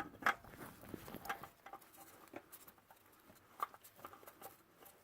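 Spin-on oil filter being screwed onto its mount by hand: faint scattered clicks, scrapes and rubbing as the hands turn it, with a couple of slightly sharper ticks.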